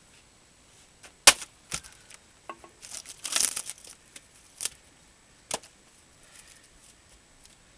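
Axe chopping dried larch firewood. A sharp axe strike lands about a second in and a second knock follows; a crackling tear of wood fibres giving way runs around the middle, and two more single knocks come near the end.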